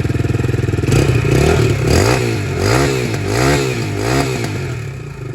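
Vento Rocketman 250R motorcycle's 250 cc engine idling through its exhaust, then revved up and down about five times in quick succession from about a second in, before dropping back to idle near the end.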